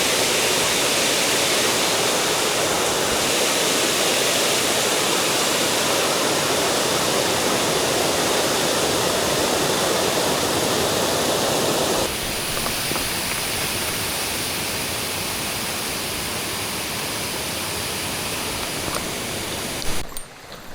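Mountain stream water rushing steadily over rocks. About two-thirds of the way through the sound changes abruptly and becomes a little softer, as with a jump to another spot on the stream.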